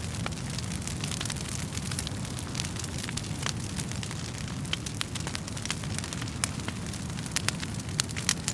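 Burning wood fire crackling, with irregular sharp pops and snaps over a steady low rumble of flames.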